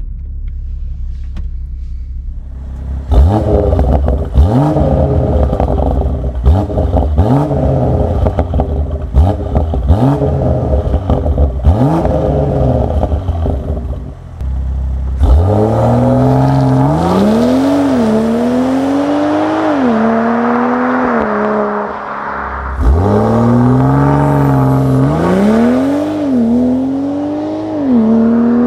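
Tuned BMW M340i's turbocharged 3.0-litre straight-six pulling hard. The engine note climbs and drops back again and again as it shifts gear, with sharp cracks in the first half. About halfway through, and again near the end, it pulls from low revs in a long, loud run, rising through gear after gear.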